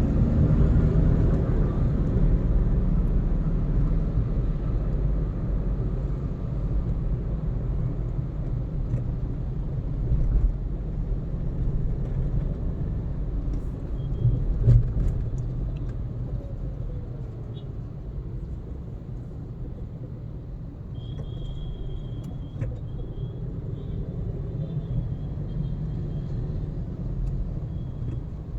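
Car driving along a road: steady low rumble of the engine and tyres, with a single thump about halfway through.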